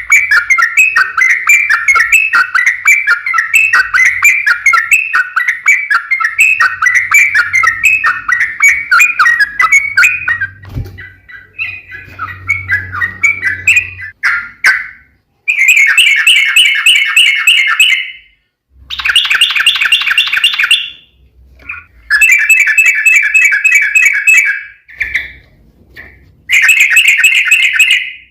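Yellow-vented bulbul (trucukan) song in fast, rattling rapid-fire phrases. The chatter is continuous for about ten seconds, then after a pause returns as four separate bursts of song, each a couple of seconds long.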